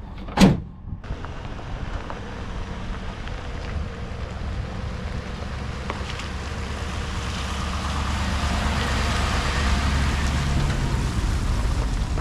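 A single loud thump about half a second in, then a vehicle engine running with a steady low rumble that grows gradually louder.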